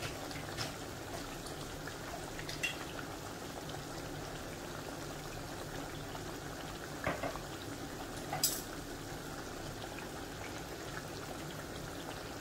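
Chicken pieces deep-frying in hot oil in a metal pot, a steady sizzling and bubbling, with a few short knocks of a spatula against the pot as ginger-garlic paste is stirred in.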